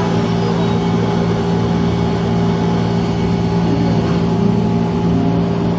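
Gakunan Railway electric train running along the track, heard from inside the car: a steady rumble of running noise with a constant hum beneath it.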